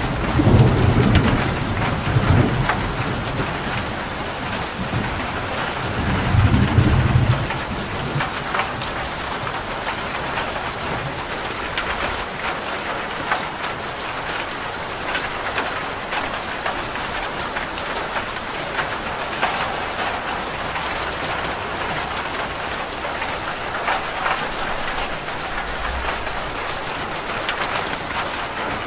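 Rain falling steadily on a roof, a dense patter. Thunder rumbles twice in the first seven seconds or so, then the rain carries on alone.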